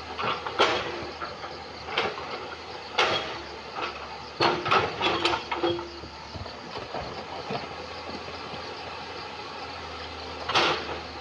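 Excavator engine running steadily while its bucket knocks and scrapes against river stones in irregular sharp clanks, a cluster of several about four to five seconds in and another near the end.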